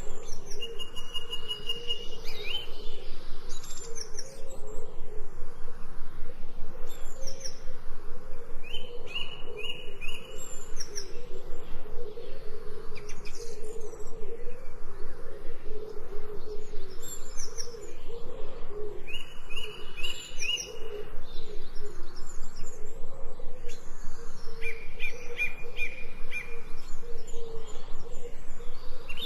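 Birdsong: birds chirping, with short high trills every few seconds over a continuous low wavering call.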